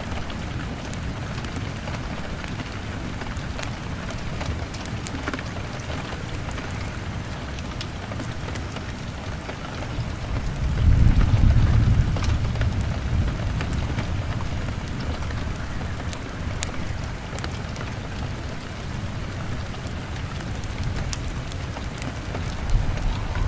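Steady rain pattering on a window, mixed with the sharp pops and crackles of a log fire. A low rumble swells up about ten seconds in and dies away over a few seconds.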